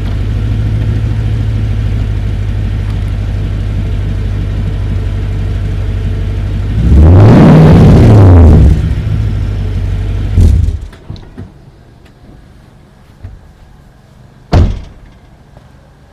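Toyota Tundra 5.7-litre V8 running at idle through a BAMuffler aftermarket exhaust. About seven seconds in it is revved once, rising and falling in pitch over a second and a half, then settles back to idle before the engine cuts off suddenly. A single sharp thump follows near the end.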